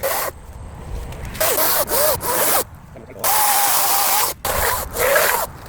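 Battery chainsaw cutting wood in four short bursts, the motor's whine dipping and recovering as the chain bites into the wood.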